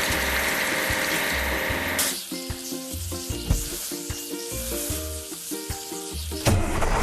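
Cartoon sound effect of a hissing water spray over a bouncy background music tune with a steady beat. The spray stops about two seconds in, leaving the music alone, and a low rumble starts near the end.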